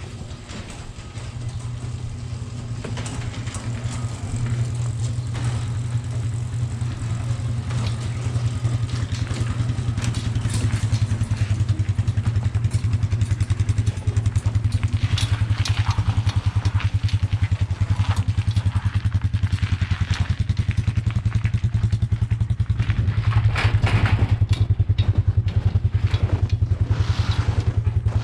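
Motor vehicle engine running steadily, growing louder over the first few seconds, with scattered rattles and knocks over it.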